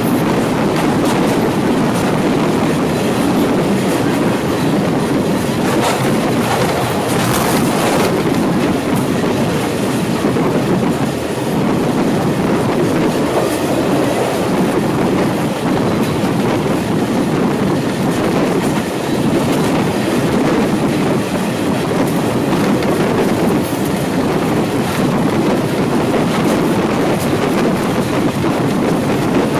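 TAZARA passenger train running along the track, heard from inside a carriage at an open window: a steady noise of wheels on rails with a few faint clicks from the track.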